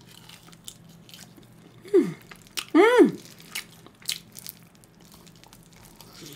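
Close-up chewing and biting on grilled pork ribs, with many small wet mouth clicks. Two short pitched sounds stand out about two and three seconds in, the second rising then falling.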